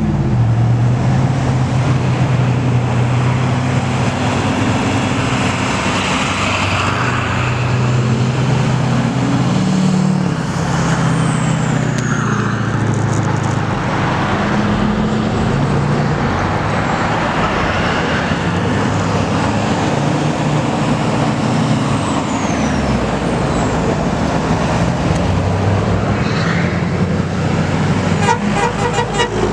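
Diesel semi-trucks in a convoy driving past, their engines rising and falling in pitch as they pull through the gears, with horns sounding. A short, fast rattle near the end.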